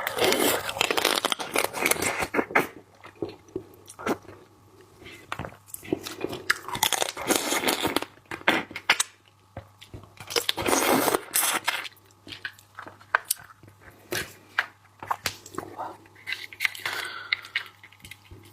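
Close-miked eating of seafood: crunching, biting and wet chewing in several bouts of sharp crackles, with softer mouth sounds between.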